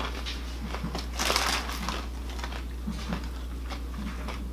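Crunchy cereal, Post Grape-Nuts Trail Mix Crunch, being chewed, with irregular crunches and a louder crackling burst about a second in, likely the cereal's bag being handled.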